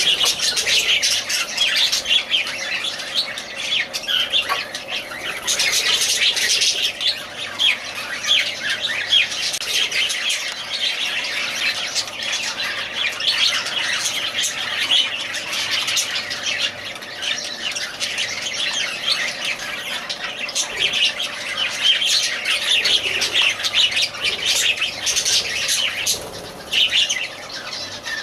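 Lovebirds chattering: a dense, continuous stream of short, high chirps and calls from several birds, overlapping without a break.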